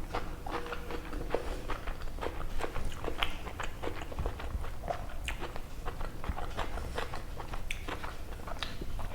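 Close-miked chewing and mouth sounds of someone eating chicken curry and rice: a steady run of irregular small clicks and smacks.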